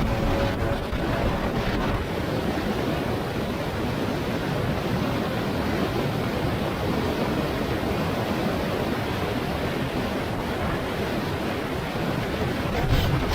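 Steady rush of wind over the microphone while riding a Yamaha T-Max 500 maxi-scooter at speed, briefly louder near the end.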